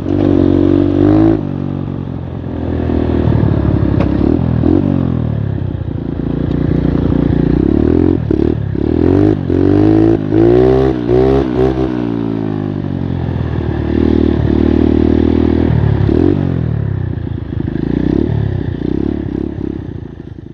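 Small single-cylinder four-stroke engine of an 85cc Skyteam Monkey-style moped running on the move, revving up and down repeatedly, with several quick revs in the middle; its clutch slips badly, by the rider's account. The engine fades away near the end.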